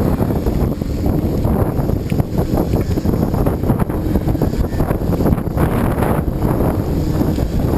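Wind buffeting the microphone: a loud, steady low rumble that gusts and dips without a break.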